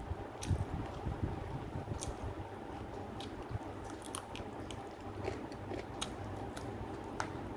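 A person chewing and biting meat off a curried chicken drumstick held in the hand. The eating makes scattered small sharp clicks and smacks.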